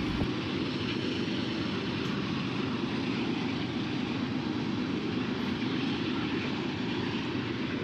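Freight cars of an oil train rolling past, a steady even noise without a distinct beat.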